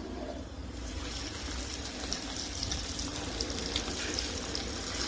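Chicken pieces deep-frying in hot oil, a steady sizzle with faint crackles that builds up about a second in.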